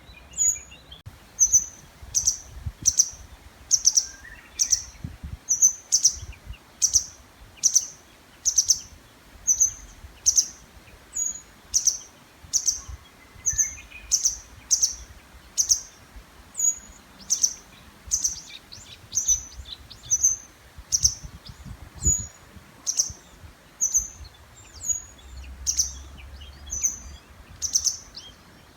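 A small songbird calling over and over, a short sharp high note just under twice a second, unbroken. A Japanese bush warbler sings faintly behind it.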